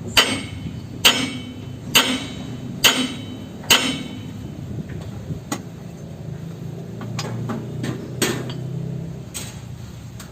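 A hammer striking metal five times at a steady pace of about one blow a second, each blow ringing briefly. A few lighter knocks and two more blows follow later.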